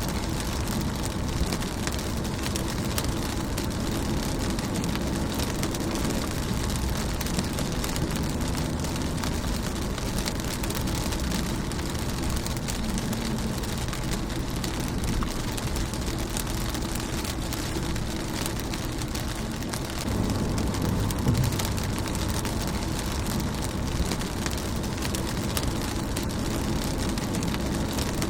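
Rain falling steadily on a car's windscreen: a dense patter of drops over a steady low rumble, which grows a little fuller about two-thirds of the way through.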